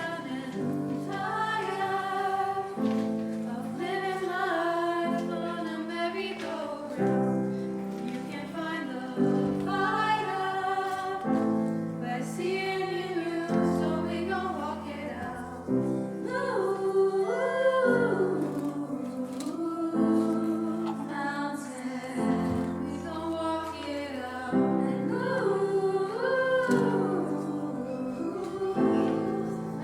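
A small choir of women's voices singing a slow song in harmony, over sustained piano chords.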